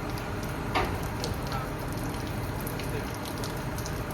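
Steady hiss of heavy rain, with a few faint ticks.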